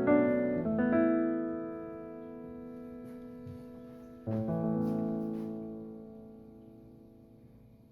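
Background piano music: a chord is struck and held, fading, then another chord comes in about four seconds in and dies away toward the end.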